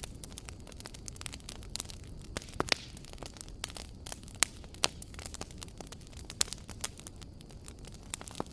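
Wood fire crackling in a fireplace: a steady low rush of flame with frequent irregular snaps, and a handful of louder sharp pops scattered through the middle.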